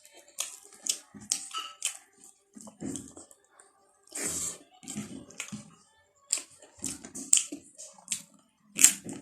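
Close-miked eating of pork and rice: wet chewing and lip smacks, heard as an irregular run of short, sharp clicks and squelches.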